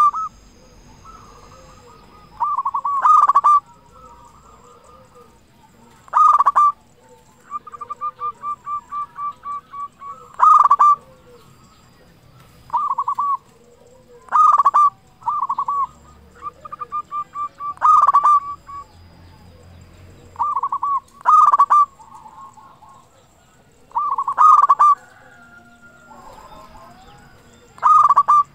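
Zebra dove (perkutut) cooing over and over: a loud rolling call about every three to four seconds, some of them run into longer strings of rapid coo notes.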